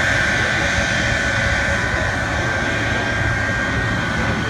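Jet engines of the Shockwave jet truck running steadily: a high, even whine over a loud rushing noise.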